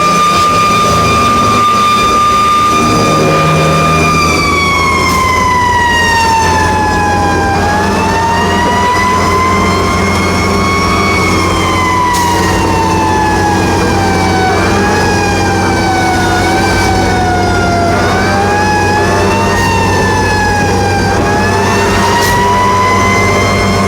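Fire truck siren held at a steady high pitch for about four seconds, then sliding down and back up in slow, uneven swells as the truck responds to a call. The truck's diesel engine runs steadily underneath.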